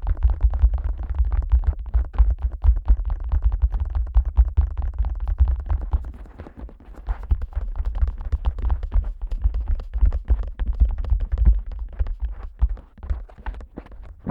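Fingers tapping rapidly on the ears of a Neumann KU100 dummy head microphone, many low thuds a second. Near the end the taps thin out into separate strikes.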